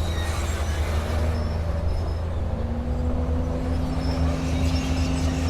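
Diesel engine of heavy earthmoving equipment running steadily, a continuous low drone.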